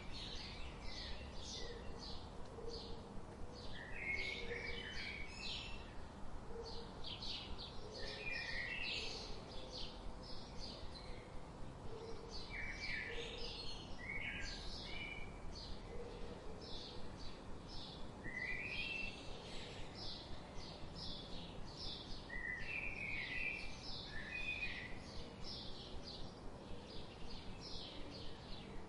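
Several songbirds chirping and singing: quick high chirps repeat almost without pause, with a short lower song phrase every few seconds and a faint low call recurring underneath.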